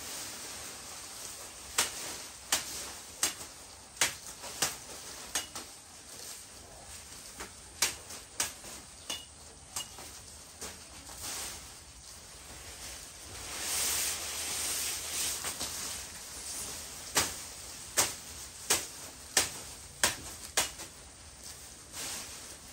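Runs of sharp, evenly spaced knocks, about three every two seconds, over a steady hiss that swells for a couple of seconds midway.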